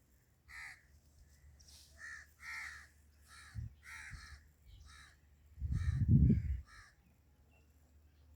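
Birds giving a series of short, harsh cawing calls, about nine in a row. A brief low rumble about six seconds in is the loudest thing heard.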